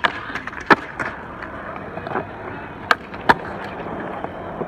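Skateboard rolling, its wheels making a steady rush, with sharp clacks of the board and trucks striking the ground: one at the start, one just under a second in, and two close together about three seconds in.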